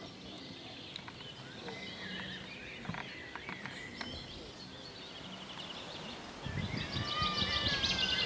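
Outdoor ambience of songbirds calling and singing. Near the end one bird sings a louder, rapid trill, and a low rumble comes in over it.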